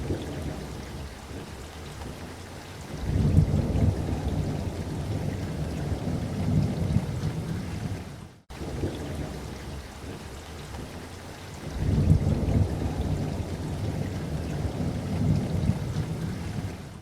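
Steady light rain with low rolling thunder rumbling twice, each roll building about three seconds in and fading over several seconds. Midway the sound briefly cuts out, then the rain and thunder pattern repeats.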